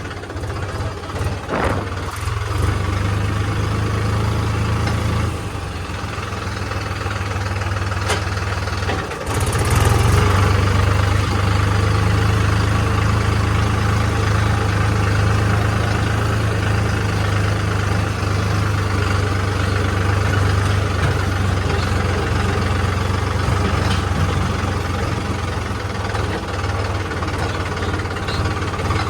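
Diesel engine of heavy machinery running steadily with a deep, even hum. It dips briefly about five seconds in and runs louder from about nine and a half seconds in.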